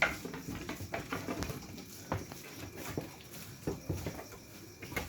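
Goats frolicking in their pen: scattered taps and knocks of hooves and bodies, with a few short animal sounds.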